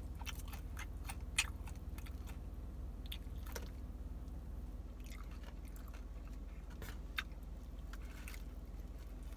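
A person chewing grilled chicken close to the microphone, with many short scattered mouth clicks, over a steady low hum.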